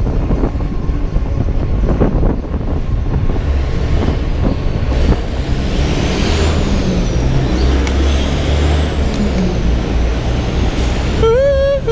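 Steady road traffic noise and low rumble heard while riding an electric bike among traffic. A short, wavering high tone comes in near the end.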